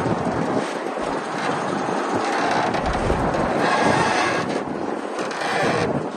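Crawler bulldozer working: its diesel engine runs under load while the steel tracks clank steadily.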